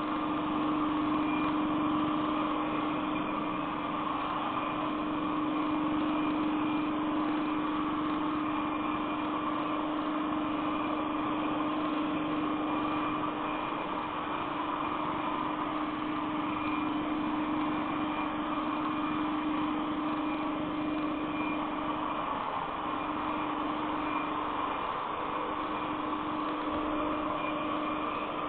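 Xiaomi Mi robot vacuum running: a steady mechanical whir with a constant low hum.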